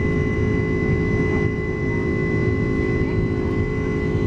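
Steady cabin noise of a Boeing 767-300 airliner: a low engine and airflow rumble with a steady high whine over it.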